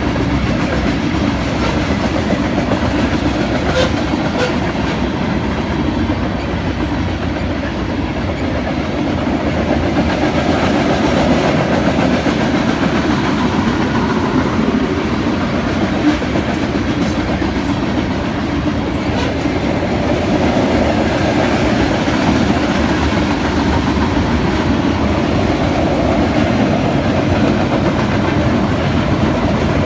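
Freight train rolling past, its cars' wheels running steadily on the rails.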